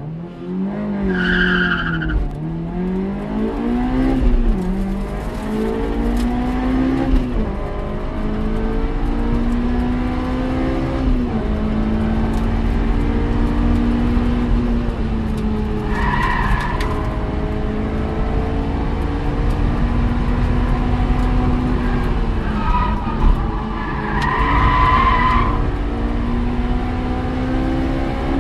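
Honda S2000's four-cylinder engine heard from inside the cabin, accelerating hard through the gears from a standing start with several quick upshifts. It then runs near steady at high revs, drops off briefly and pulls again near the end. Short high tyre squeals come a few times.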